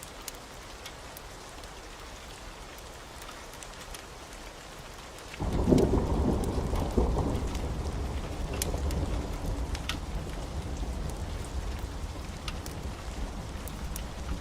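Steady heavy rain with scattered sharp ticks. About five seconds in, a thunderclap breaks in and rolls on as a long, deep rumble that slowly fades.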